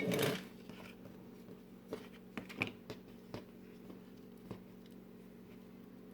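Kitchen handling noises as dough is worked and sealed on a counter: a brief rustle at the start, then scattered light taps and clicks that thin out after about four seconds, over a steady low hum.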